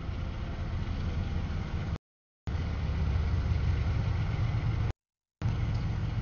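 Freight train rolling past, a steady low rumble of cars on the rails. The sound cuts out completely twice, briefly, around 2 and 5 seconds in.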